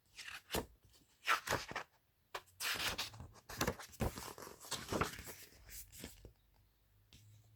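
Paper rustling and rubbing as the pages of a picture book are turned and handled: a few short rustles, then a longer stretch of rustling that stops about six seconds in.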